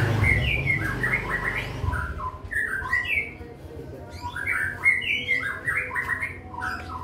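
A bird chirping in quick, irregular runs of short rising and falling notes.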